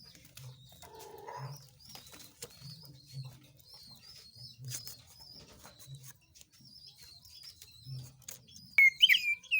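Small songbird twittering with quick high chirps over a dove's low, evenly repeated cooing, from a birdsong lure recording; near the end a loud, clear whistled call breaks in.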